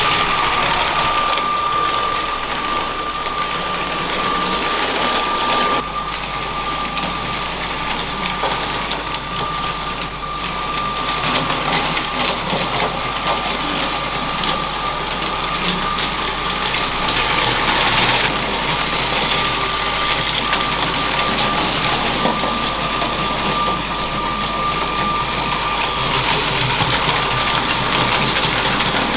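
LEGO train's small electric motor running with a steady high whine, the wheels rattling along the plastic track with scattered faint clicks.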